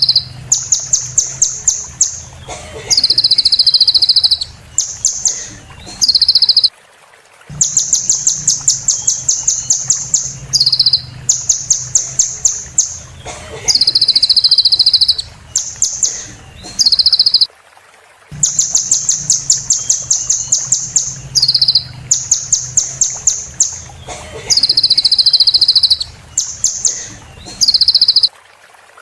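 A sunbird ('kolibri') singing: fast runs of high, evenly spaced chipping notes alternating with long, high buzzy trills. The same phrase comes back about every eleven seconds, with brief breaks, over a faint low hum.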